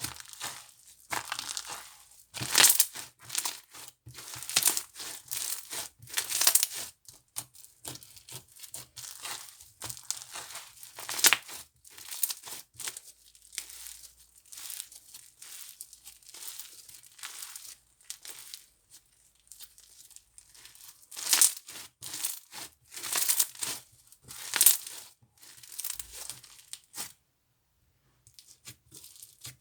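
Slime being squished, pressed and stretched by hand, giving irregular sharp crackles and pops, some much louder than others, with a brief pause near the end.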